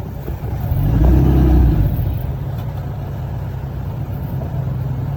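Heavy earthmoving machine's diesel engine running steadily, revving up under load for about a second near the start before settling back.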